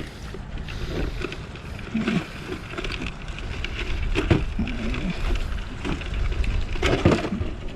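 Wind buffeting the microphone as a steady low rumble, with scattered small clicks and knocks.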